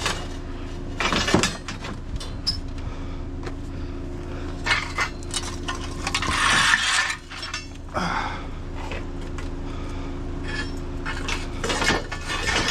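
Pieces of scrap metal clanking and clinking as they are handled and loaded, with irregular knocks and a longer scraping rattle about six seconds in, over a steady low hum.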